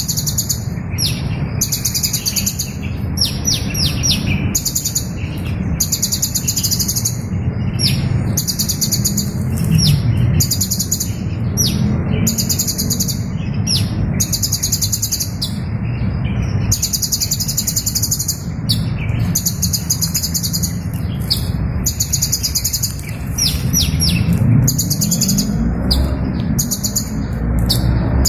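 A small bird calls in rapid trains of thin, high chirps, each train half a second to a second long and repeated over and over with short gaps. Under it runs a steady low hum.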